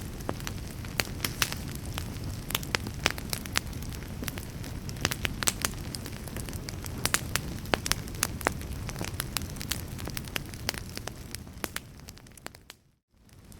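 Wood fire in a fireplace crackling, with frequent sharp pops and snaps over a steady low rumble. Near the end the whole sound fades out to silence for a moment and comes back, a seam in the looped recording.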